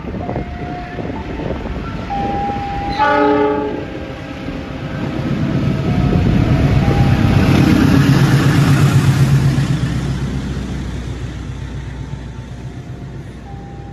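Diesel locomotive hauling a passenger train gives one short horn blast about three seconds in. Its engine then grows louder as it passes close by, and fades as the carriages roll past on the rails.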